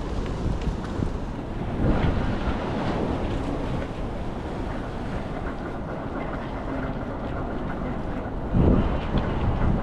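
Wind buffeting the microphone over a steady low rumble, with stronger gusts about two seconds in and again near the end.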